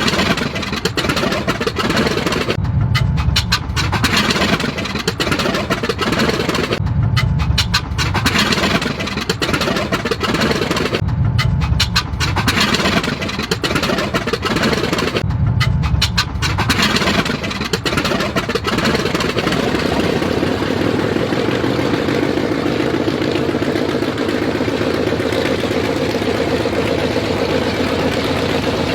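Piston aircraft engines starting up: the engine sound comes in loud surges about every four seconds, then from about two-thirds in settles into a steady running drone.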